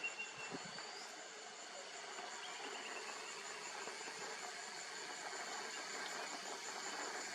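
A steady, evenly pulsing high insect trill, like a cricket, with two brief bird calls over it: a short rising chirp about a second in and a quick falling run of notes a moment later. A soft background hiss grows slightly toward the end.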